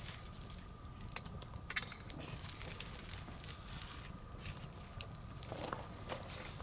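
Wood bonfire burning, with irregular sharp crackles and pops over a low steady rumble.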